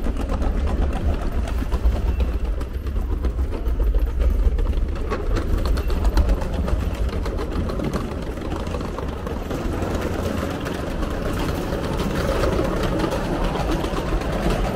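Low, steady rumble of a train at a railway platform, heaviest in the first half and easing off after about eight seconds.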